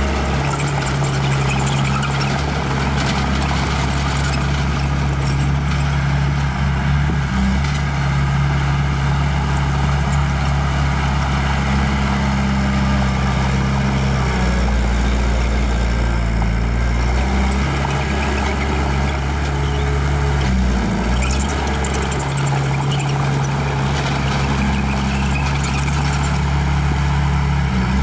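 Small bulldozer's diesel engine running steadily, its note shifting and dipping a few times.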